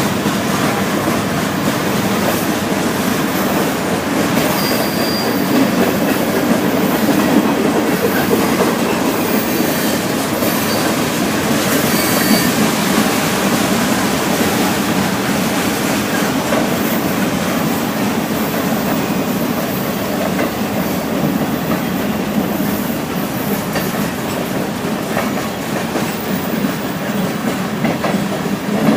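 Norfolk Southern freight train rolling past, a steady loud rumble of steel wheels on rail. A couple of brief high wheel squeals come early on.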